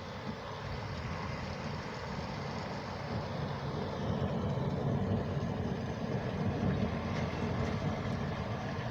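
Distant thunder rumbling, a low rumble that builds through the middle and eases off near the end, over a steady hiss of outdoor background noise.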